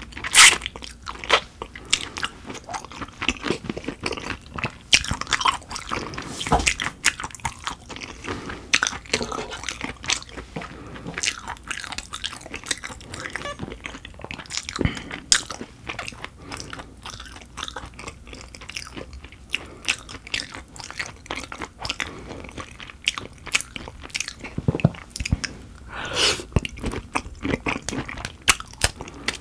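Close-miked eating of dohwa shrimp: biting and chewing, with an irregular run of short crunches and wet mouth clicks.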